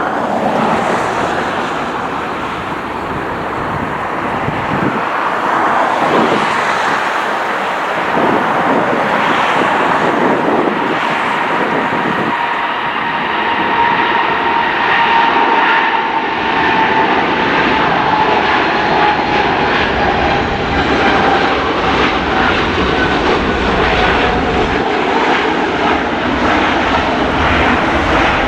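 A heavy jet airliner's engines passing close by: a loud steady roar with a whine that slowly falls in pitch as the plane goes past, and a low rumble growing toward the end.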